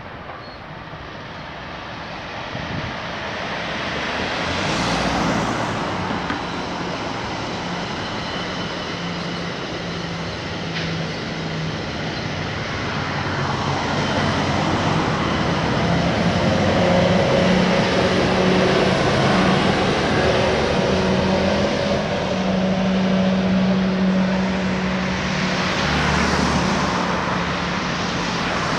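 AMT commuter train passing, a steady low drone that grows from about halfway through and stays at its loudest for several seconds. Cars swish past on the road at the start and again near the end.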